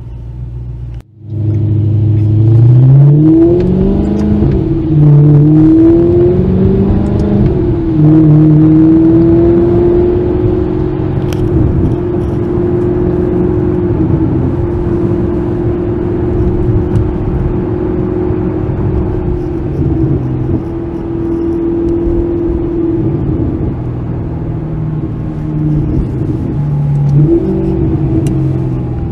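Sports car engine revving, rising and falling in pitch a few times, then holding a steady high note for a long stretch before revving again near the end.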